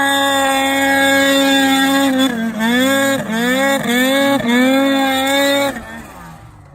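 Ski-Doo Summit 850 snowmobile's two-stroke engine at high revs, held steady at first, then dropping and climbing back four times in quick succession as the throttle is let off and opened again, before the revs fall away near the end.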